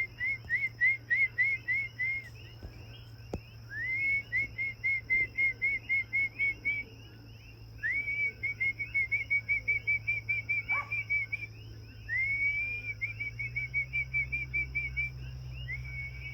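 Repeated whistled phrases: each is a rising note followed by a quick run of short notes, about five a second, and the phrase comes again every four seconds or so. A steady high insect drone runs underneath.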